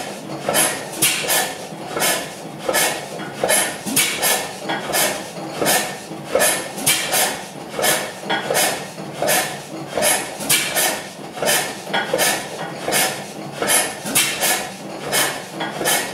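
Crossley slide-valve stationary gas engine running at slow speed, its valve gear clanking in a steady, even rhythm of about one to two sharp metallic strokes a second.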